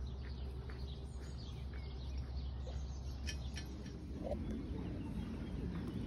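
Birds chirping now and then, short scattered calls, with a single lower call about four seconds in, over a steady low hum.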